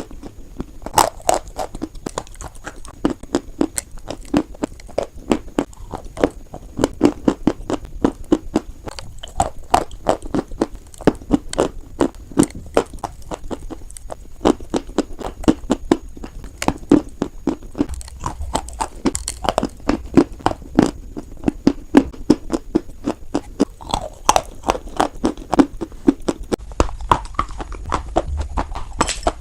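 White chalk being bitten and chewed close to the microphone: rapid, sharp crunches, several a second.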